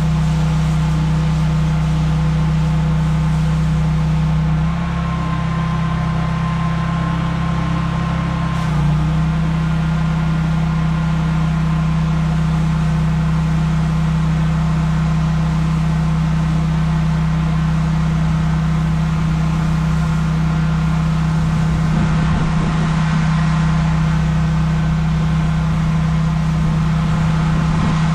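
Pressure washer's engine running steadily with a low hum, dipping slightly for a few seconds about five seconds in.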